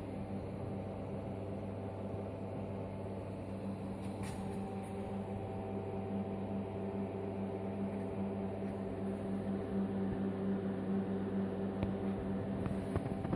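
Inverter TIG welding machine on DC during stainless-steel welding, giving a steady electrical hum with a faint hiss. It grows slightly louder towards the end, with a few crackling clicks near the end.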